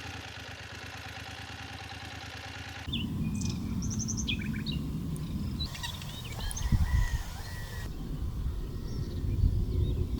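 Small birds chirping and calling over a low rumble of wind noise, after a few seconds of a steady hum that stops abruptly.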